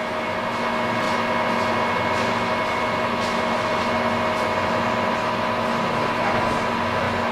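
Railway train running: a steady mechanical hum with several held tones, and faint soft beats about twice a second.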